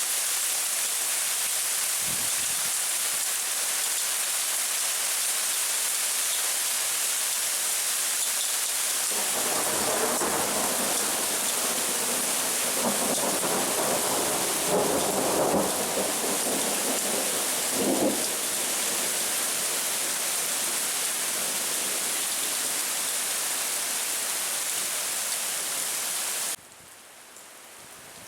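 Thunderstorm: heavy rain hissing steadily, with a long rolling rumble of thunder from about nine seconds in to about eighteen seconds. Near the end it drops abruptly to lighter rain.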